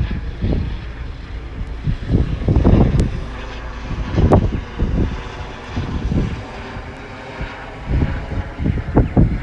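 Two coupled Class 150 diesel multiple units running through the station with a steady engine drone, while wind buffets the microphone in irregular gusts.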